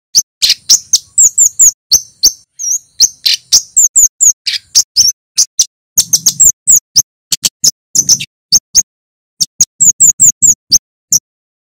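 Male kemade flowerpecker calling in rapid runs of sharp, high 'cit' chirps, each note sliding quickly downward, with brief pauses between runs: the loud, full-volume song of a bird in top form.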